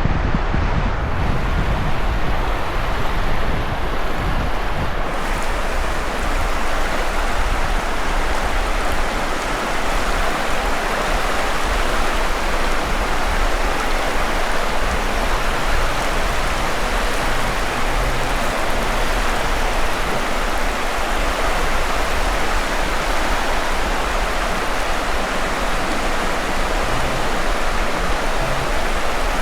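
Steady rushing of sea surf on the beach, with wind buffeting the microphone as a low rumble.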